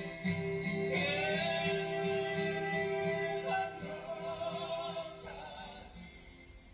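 A song ending: singing with instrumental accompaniment. About a second in, a voice slides up into a long held note, and the music fades away over the last couple of seconds.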